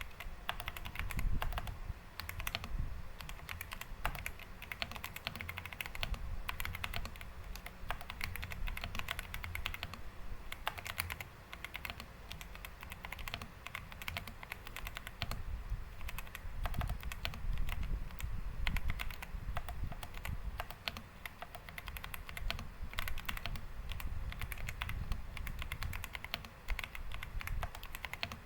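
Xinmeng M87 mechanical keyboard being typed on: a steady stream of fast, irregular key clicks and clacks.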